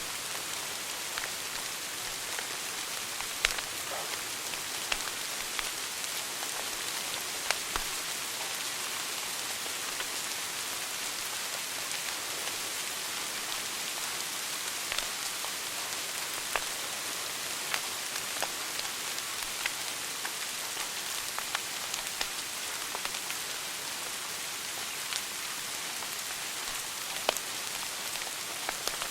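Wood fire burning in a fireplace: a steady hiss with irregular sharp crackles and pops scattered throughout, a few of them louder.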